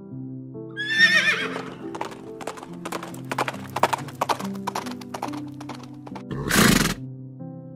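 A horse whinnying about a second in, one wavering call falling in pitch, followed by a run of hoof clip-clops and a loud rushing burst near the end, over background music.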